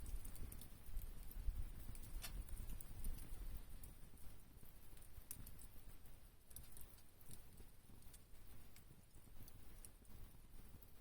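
Wood campfire crackling faintly, with scattered small pops and one sharper crack about two seconds in.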